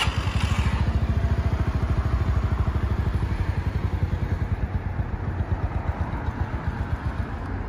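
Air-cooled 50cc single-cylinder engine of a Mash 50 motorcycle just started from cold, running in a quick, even pulse that eases off a little and drops away near the end.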